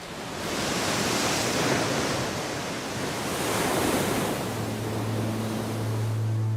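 Sea waves surging and breaking in two long swells. A low, steady musical drone comes in about two-thirds of the way through.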